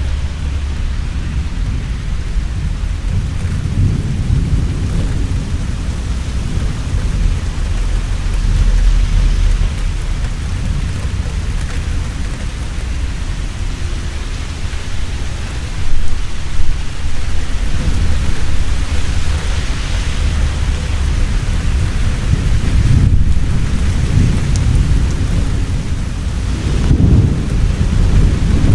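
Heavy rain falling steadily, with rolling thunder rumbling in deep swells throughout and a sharp crack of thunder about halfway through.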